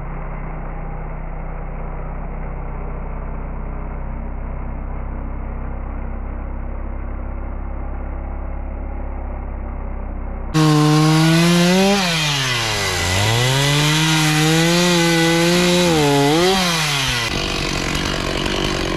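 A chainsaw cutting a quaking aspen log. For about ten seconds the engine runs steadily and sounds muffled. Then a loud full-throttle stretch comes in, its pitch dropping and recovering several times as the chain bogs in the cut, and it drops off near the end.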